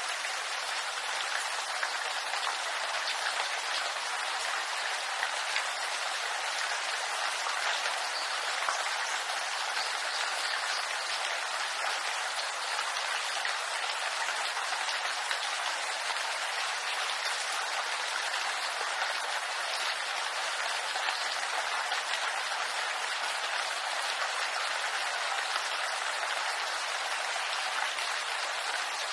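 Steady, even rain falling on a bamboo grove.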